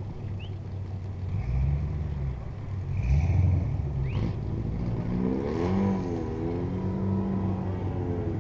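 2006 Ford Mustang engine running with a low rumble, revved briefly twice and then with the pitch of the revs rising and falling.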